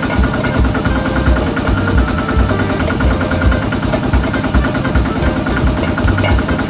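Small engine of a homemade mini tractor running steadily with a rapid, even beat.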